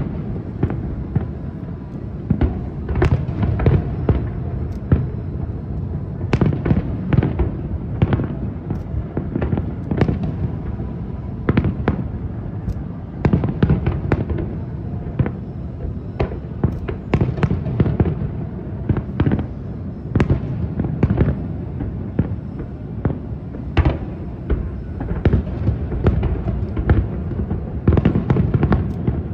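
Aerial fireworks in a continuous barrage: many shells bursting in quick, irregular succession, sharp cracks over a dense rumble of deep booms echoing off the city.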